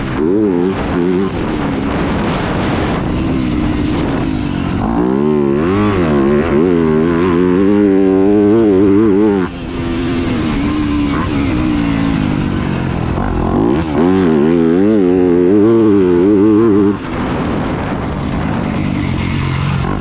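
Yamaha YZ250F's 250cc four-stroke single-cylinder engine revving up and down rapidly as the motocross bike is ridden, with the throttle briefly shut about halfway through and again near the end.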